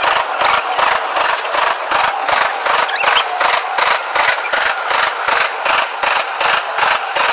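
Freight train of coal hopper cars rolling past at speed: wheels clicking over rail joints in a quick steady rhythm of about four to five clicks a second, with a thin high squeal at times.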